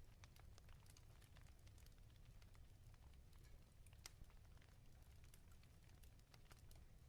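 Wood fire crackling in a fireplace: irregular sharp pops and snaps, the sharpest about four seconds in, over a low steady rumble of the flames.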